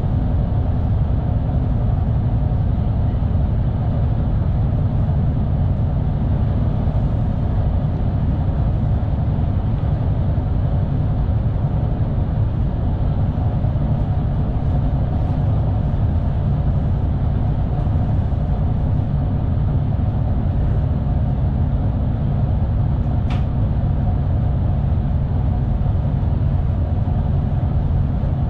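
Steady low rumble of an NS Sprinter New Generation (SNG) electric multiple unit running at speed, heard from inside the driver's cab. There is one brief sharp click about three-quarters of the way through.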